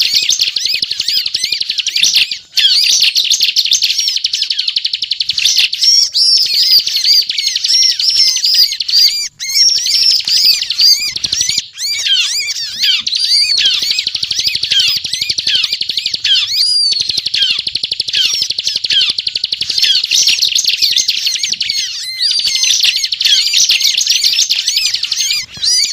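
Bar-winged prinia (ciblek) in full, continuous song: a dense, rapid chattering stream of high chirps and trills, broken only by a few momentary pauses.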